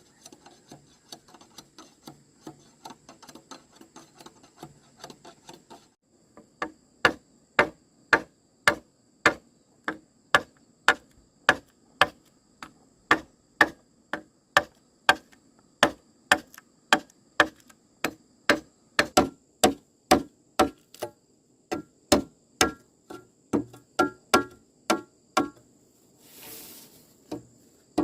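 Faint fast ticking, then after about six seconds a long run of sharp blows from a hand tool, about one and a half a second and evenly paced, some with a short ringing note. A brief swishing noise comes near the end.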